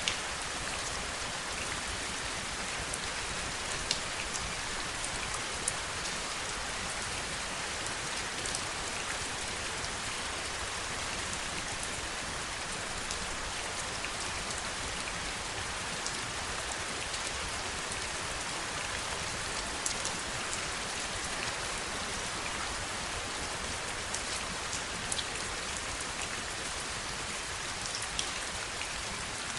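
Steady rain, an even hiss with scattered sharper ticks of individual drops striking.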